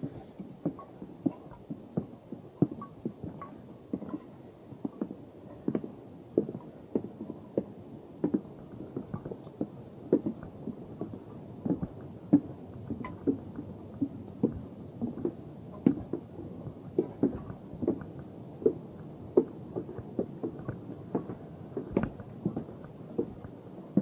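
Footsteps of hikers walking on a wooden boardwalk trail: a steady, uneven tread of dull knocks, roughly two a second.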